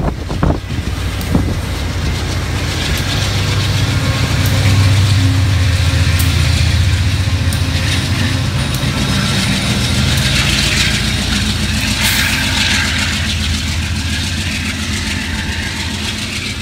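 A passing Shore Line East passenger train: the GE Genesis diesel locomotive's engine drones and the wheels run on the rails. The sound is loudest as the locomotive goes by a few seconds in, then eases off a little.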